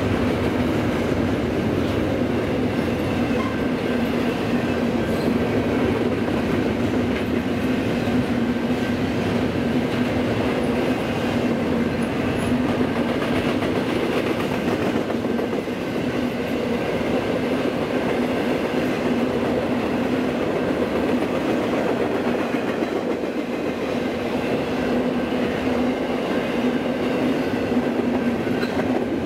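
Double-stack intermodal freight train's well cars rolling past at steady speed: a continuous rumble of steel wheels on rail with clickety-clack and a steady drone over it.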